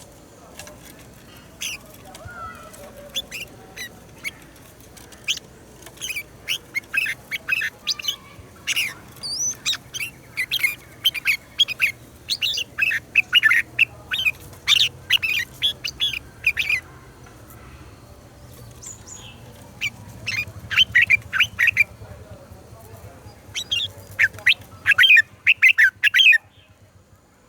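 Red-whiskered bulbul song: fast runs of short, sharp chirping notes in two long bursts with a lull in the middle, cutting off abruptly near the end.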